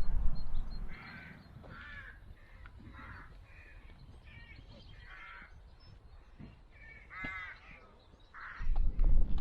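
A bird giving harsh, crow-like calls over and over, about one a second. Gusts of wind rumble on the microphone at the start and again near the end.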